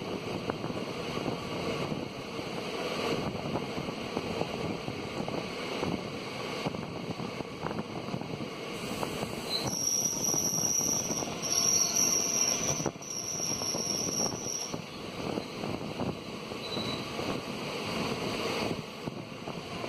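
Running noise of two passenger trains passing each other at speed on adjacent tracks, a steady rumble and rattle of coaches with wind buffeting the microphone at an open carriage door. About halfway through, a high thin squeal comes in for about five seconds, broken twice.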